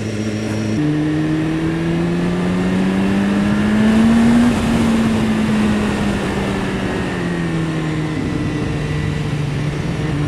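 2015 BMW S1000RR's inline-four engine under way: the revs step up about a second in, climb steadily for a few seconds, then fall away and settle at a steady pitch.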